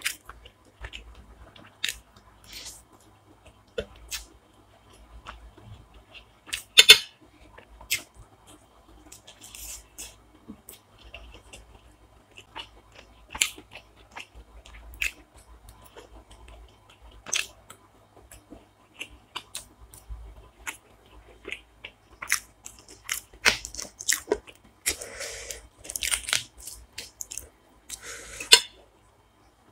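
Close-up eating sounds: a person chewing and biting food, with irregular sharp crunches and clicks, the loudest about seven seconds in and again near the end.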